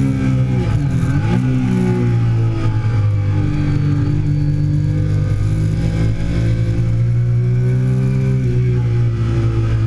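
Triumph Daytona 675's inline three-cylinder engine running hard on a race track, heard from on board: the revs dip and snap back up about a second in, climb steadily for several seconds, then drop sharply near the end as it changes gear.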